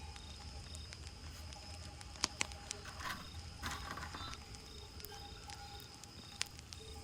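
Campfire crackling: irregular sharp pops and snaps scattered through, with a brief burst of denser crackle about three to four seconds in.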